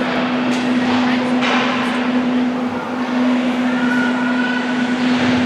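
Ice hockey game on the rink: skates scraping and carving the ice, with a steady hum running underneath.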